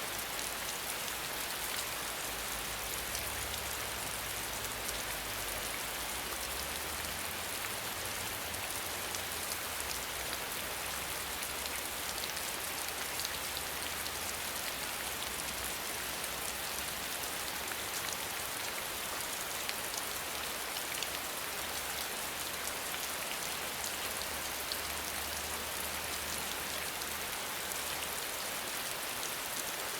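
Steady rain falling, a dense, even hiss with scattered small drop ticks.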